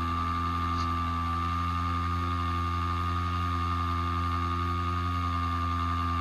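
A small electric motor running at a constant speed: a steady high whine over a low hum, without change.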